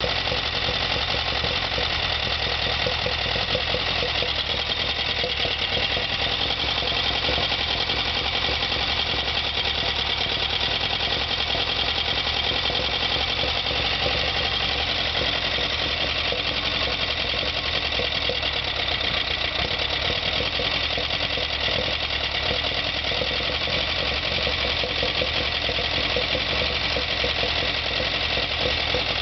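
ZAZ-968M Zaporozhets's air-cooled V4 engine running steadily at an even speed.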